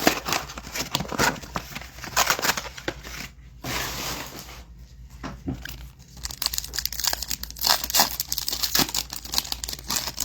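Trading-card pack wrapper being torn open and crinkled by hand, an irregular run of tearing and crackling.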